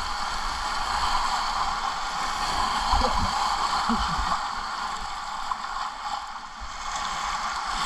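Whitewater of a river rushing steadily around a kayak, with a couple of brief low knocks about three and four seconds in.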